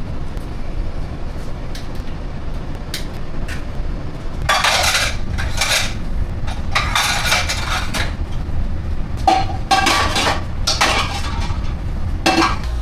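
Dishes, pots and metal utensils clattering in several bursts from about four seconds in, over a steady low hum.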